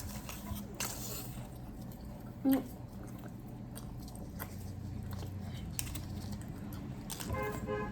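A mouth crammed with several sticks of chewing gum being chewed, with scattered short wet clicks and smacks. A brief vocal sound comes about two and a half seconds in, and another shortly before the end.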